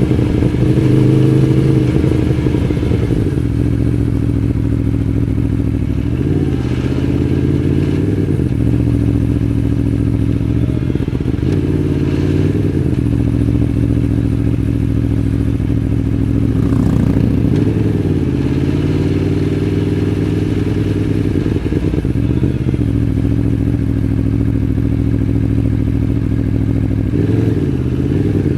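Aprilia Tuono V4 1100's V4 engine running at low revs, with a few brief small throttle blips that lift its pitch and drop back.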